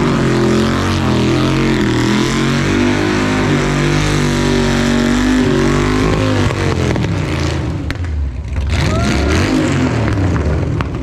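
Texas Speed 416-cubic-inch LS3 V8 revving hard at high rpm, its pitch wavering up and down. It eases off about seven seconds in and builds again near the end.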